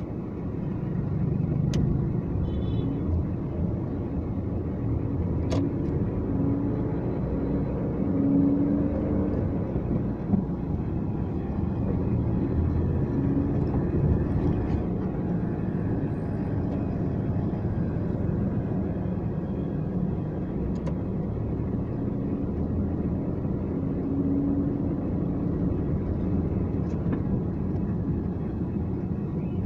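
A car driving: a steady low rumble of engine and road noise, with a few brief clicks.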